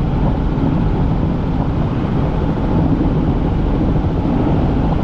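Helicopter in flight, its rotor and engine making a loud, steady drone.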